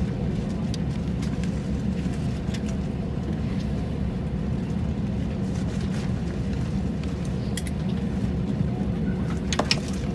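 Cabin of an Airbus A320 after landing: a steady low rumble of the engines and airframe with a few light clicks and rattles, a short cluster of louder clicks near the end.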